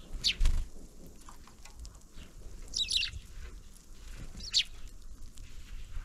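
Small birds at a winter feeder giving three short, high calls, the middle one a quick cluster of notes. A low thump comes about half a second in.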